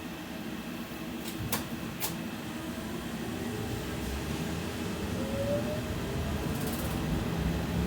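Inside a BKM 60102 tram under way: the rumble of the running gear grows steadily louder, with two sharp clicks about a second and a half in and a brief rising whine about five seconds in.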